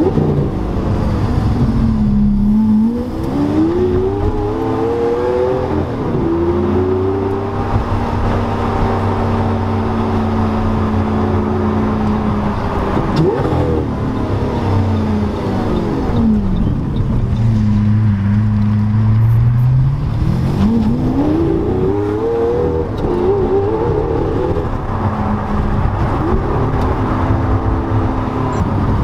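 Lamborghini Aventador LP700-4's V12 through a full IPE exhaust, heard from inside the cabin while driving. The engine note falls and rises twice as the car slows and accelerates again, with a steady stretch between and a sharp crack about halfway through.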